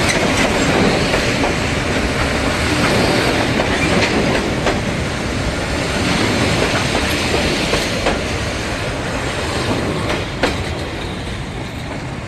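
A train passing at close range, with a steady rumble and wheels clicking over the rail joints. There is a sharper click about ten seconds in, and the sound eases slightly near the end.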